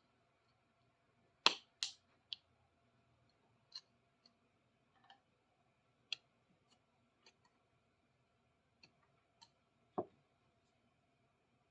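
Scattered light clicks and taps of hand tools on a large adjustable wrench whose jaw is stuck, its groove packed with grime. There is a sharper pair of clicks about a second and a half in and a duller knock near the end.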